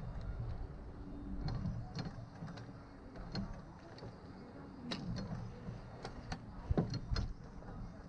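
Scattered light clicks and knocks over a low rumble.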